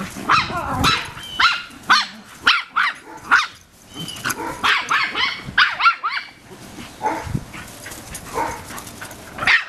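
A dog barking at another animal: a quick string of sharp barks, then pitched yelping calls that bend up and down, then fainter, sparser calls.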